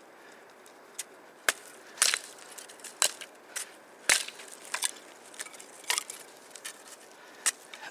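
Firewood being broken up by hand for a campfire: irregular sharp cracks and snaps of dry wood, with two heavier knocks about three and four seconds in.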